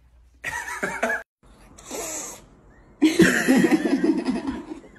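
Cat meowing and yowling in short snatches, mixed with human laughter. It cuts off abruptly just over a second in, and a loud stretch of calling and laughter follows from about three seconds on.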